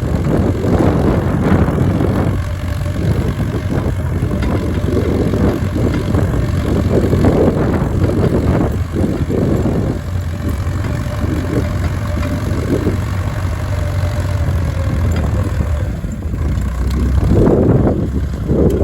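Case DC tractor's four-cylinder engine running steadily under load while pulling a mouldboard plow.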